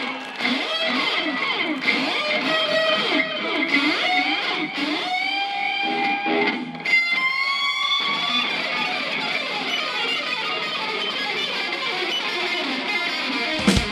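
Live rock band playing an instrumental passage, with an electric guitar lead of bending, sliding notes and a held bent note about halfway through; no singing. A short sharp knock sounds just before the end.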